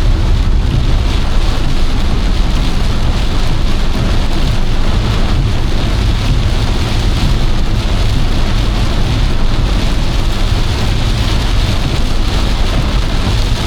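Torrential rain drumming on a moving car's roof and windscreen, heard from inside the car, over a steady low rumble of the car on the road.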